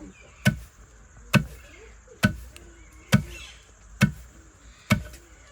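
Six sharp knocks at a steady, even pace, a little under a second apart.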